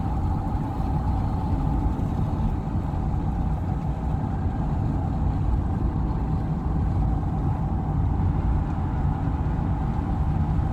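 Steady engine and road noise from a car being driven, an even low rumble.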